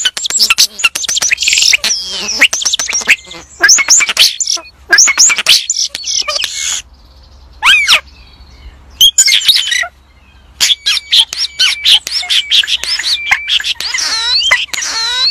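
A songbird singing in quick phrases of varied whistled and chirping notes that sweep up and down, with a couple of short pauses between phrases.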